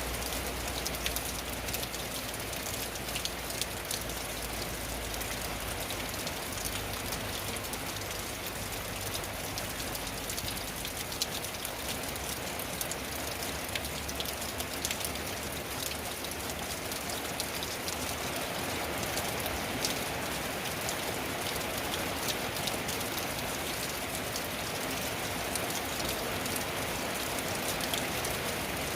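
Steady rain falling on a tin roof: a dense, even patter with many individual drops ticking sharply against the metal.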